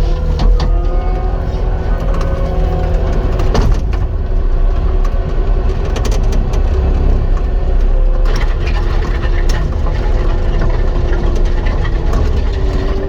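Caterpillar 259 skid steer working: its diesel engine running steadily under load with a hydraulic whine that shifts in pitch, and a few sharp metal clanks now and then.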